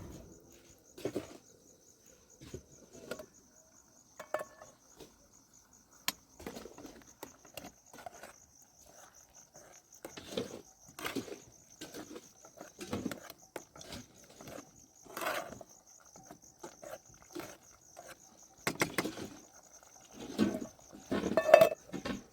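Insects chirping steadily in a fast pulsing trill, with irregular knocks throughout that come louder and closer together near the end.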